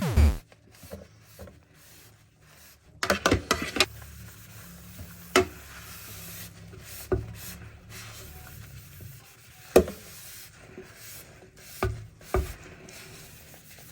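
Dishes being washed by hand: steady scrubbing and rubbing, broken by sharp clinks and clatters of dishes and utensils, a quick cluster about three seconds in and single knocks after that.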